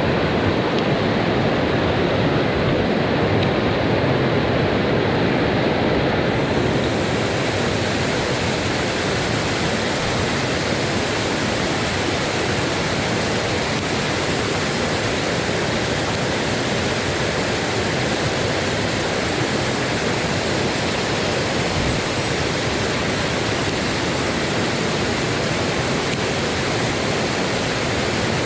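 Mountain headwater stream rushing over rocks, a steady wash of water noise; about six seconds in it turns brighter and hissier.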